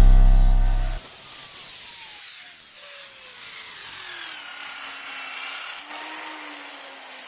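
Background music that cuts off about a second in. Then a power tool works the rusty steel of a safe during rust removal: a steady rasping noise under a whine that falls in pitch over several seconds.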